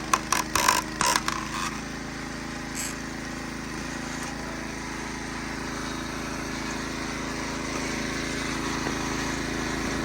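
Wood cracking and splintering as a log is split, a quick run of sharp cracks over the first second and a half or so, over the wood splitter's new Predator engine running steadily, which carries on alone for the rest.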